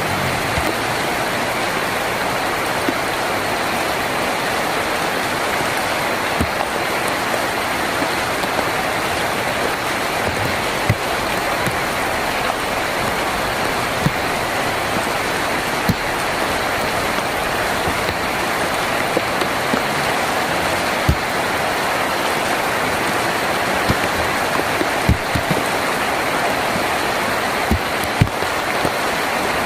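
Heavy rain falling steadily on a tin roof, an even rushing hiss with scattered sharper drop taps, more of them in the second half.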